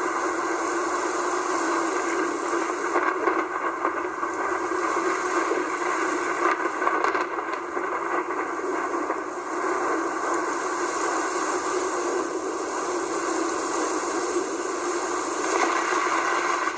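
Heavy rain pouring steadily, a continuous even rush of noise.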